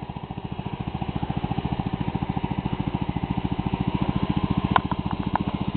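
1980 Power King 1618 garden tractor's engine running with a rototiller fitted, a steady, even firing beat that grows louder over the first second or so. A few light ticks come about five seconds in.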